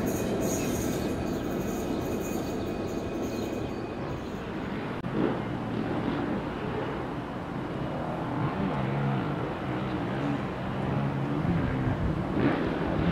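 Rumble of a train on the rails dying away. Then a diesel-hauled train approaching, with a low steady engine hum that grows about halfway through.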